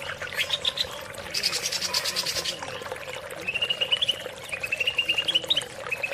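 Greater green leafbird (cucak ijo) singing in several quick runs of rapidly repeated short notes, each run rising a little in pitch, with one higher, denser run early on.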